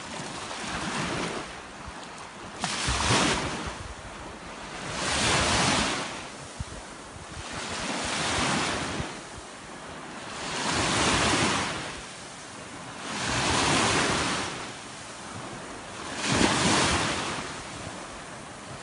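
Sea waves breaking on the shore of the Caspian Sea, six swells of surf that each build and fade about every two and a half to three seconds, with wind buffeting the microphone.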